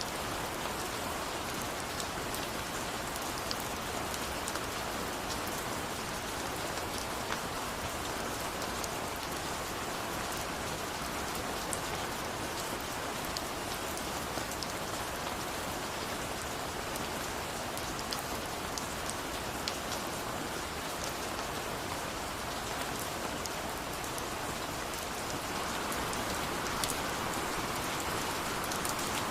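Steady heavy rain falling, a dense even hiss with fine drop patter, growing a little louder near the end.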